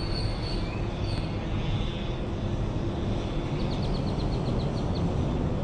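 Outdoor riverbank ambience: a steady low rumble with birds chirping, including a quick run of about eight short high chirps near the end.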